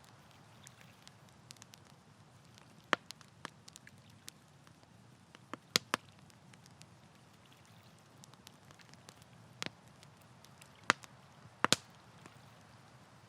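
Wood campfire crackling: irregular sharp pops and snaps, a handful of them louder than the rest, over a faint steady low background.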